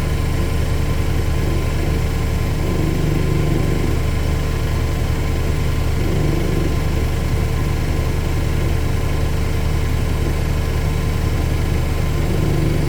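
Two Miele washing machines, a Vitality W427 and a Novotronic W971, running together in their final high-speed spin: a loud, steady hum with a low drone that holds even throughout.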